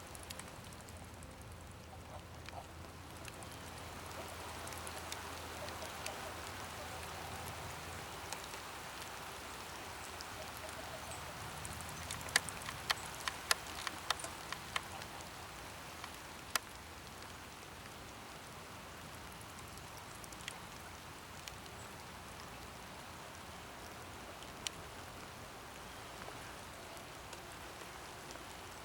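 Steady rain falling. Scattered sharp ticks of drops land close by, with a cluster of them about halfway through.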